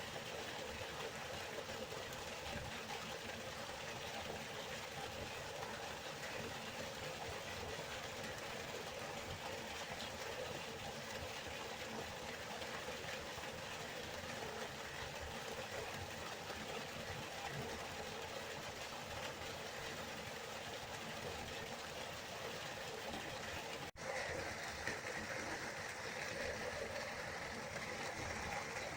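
River water flowing, a steady rushing with no pauses. About 24 seconds in it drops out for an instant, and afterwards the rushing is a little brighter.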